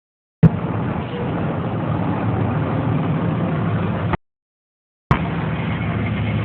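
Fire engine idling steadily, a low even engine hum. The recording cuts out to dead silence for about a second before it returns.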